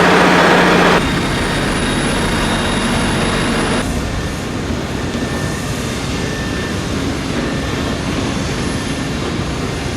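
Steady outdoor vehicle noise, a continuous rumble. It drops suddenly in level about a second in and again near four seconds.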